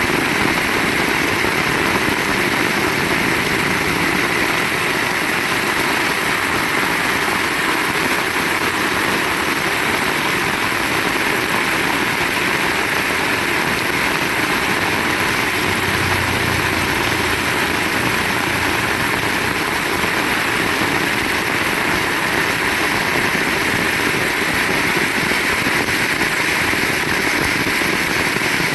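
Heavy rain falling steadily, a dense, even downpour with no breaks.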